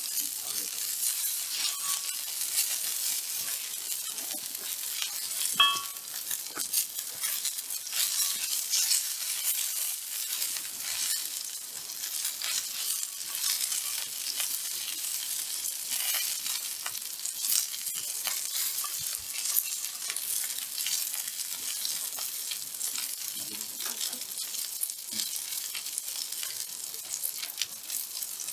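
Kuroge Wagyu steak sizzling and spitting on a hot 4.5 mm black-skin steel griddle plate: a steady, crackling hiss full of fine pops. About five and a half seconds in, there is a brief metallic ring.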